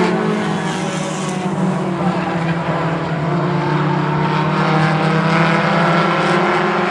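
A pack of four-cylinder short-track stock cars racing around an oval, several engines running hard at once, their overlapping tones rising and falling as the cars pass.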